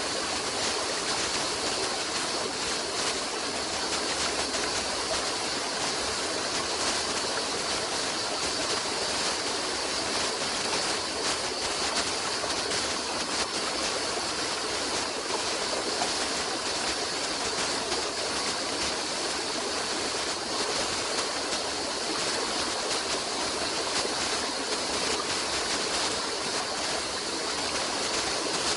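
Running water flowing steadily, like a stream, as an even, unbroken rush.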